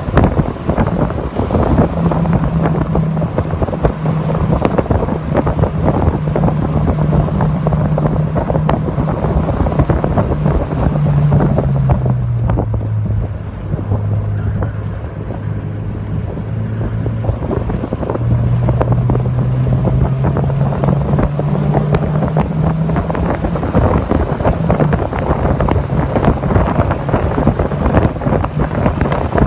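Mazda MX-5 Miata (NC) four-cylinder engine pulling steadily at speed under track driving, its note dropping lower about twelve seconds in for several seconds, then rising again. Heavy wind rushes over the microphone throughout.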